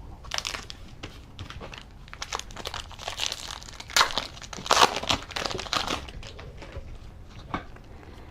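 Wrapper of a Donruss football trading-card pack being torn open and crinkled by hand, in irregular crackles that are loudest about halfway through.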